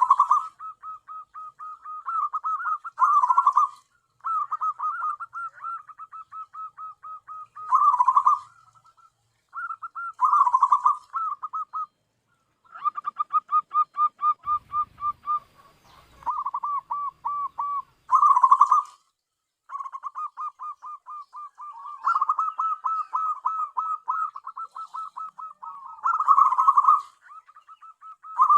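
Zebra dove (perkutut) cooing: phrase after phrase of quick, repeated coos, each several seconds long with short pauses between, some notes louder than the rest.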